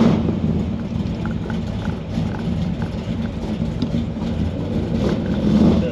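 The 502 cubic inch big-block V8 of a 1969 Chevelle running steadily with a deep, even rumble from its exhaust.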